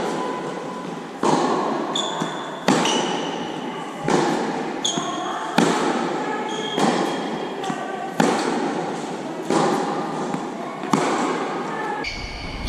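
Tennis balls struck by rackets in a rally, a sharp pop about every second and a half, with short high shoe squeaks on the court in between.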